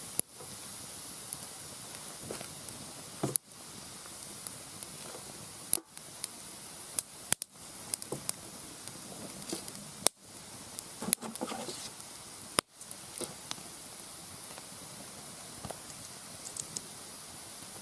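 Mixed hardwood campfire crackling, with sharp, irregular pops over a steady hiss of burning wood.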